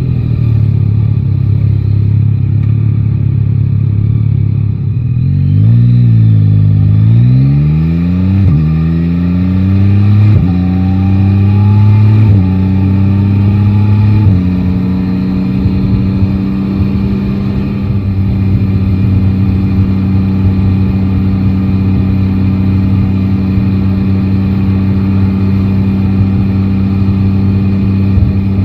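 Yamaha Tracer 9 GT's 890 cc three-cylinder engine pulling away and accelerating hard through the gears. Its note rises in several sweeps, each cut off sharply by an upshift, then settles into a steady cruise for the second half.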